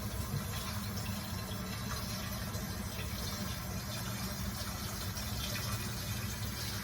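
Toilet water running steadily: a continuous rushing hiss with a low hum beneath it.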